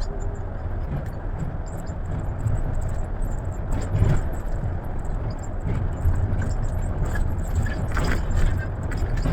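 Scania coach on the move: a steady low rumble of engine and road noise, with a few sharp knocks or rattles, the loudest about four seconds in and another about eight seconds in.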